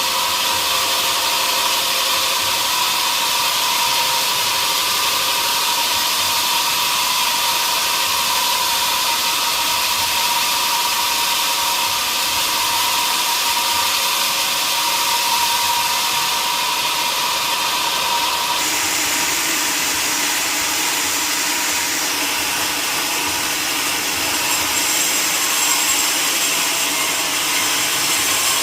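Large sawmill saw running through a mahogany log, a steady mechanical noise with a high whine. About two-thirds of the way through, the whine drops out and the sound changes to a hissier cutting noise.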